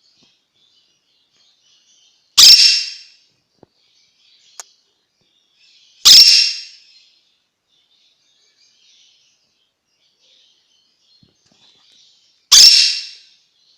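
Three loud, harsh squawks from a young quaker parrot (monk parakeet), a few seconds apart, each starting sharply and fading within a second, with soft bird chatter in between.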